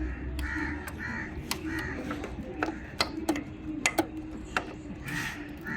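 Crows cawing repeatedly, with a scatter of sharp clicks and taps from tools on metal.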